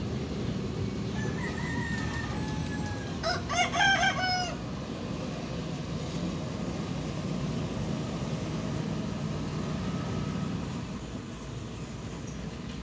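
A rooster crowing, loudest about three and a half seconds in, after a fainter drawn-out call. A steady low rumble runs underneath throughout.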